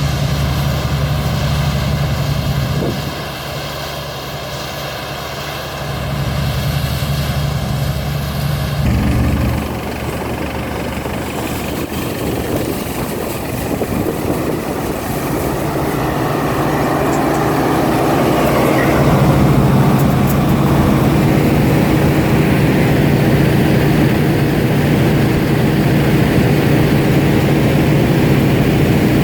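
New Holland TX34 combine harvester running at work: a steady diesel engine drone with the din of its machinery. The sound shifts abruptly near 3 s and 9 s, then grows louder and fuller from about 12 s and stays steady.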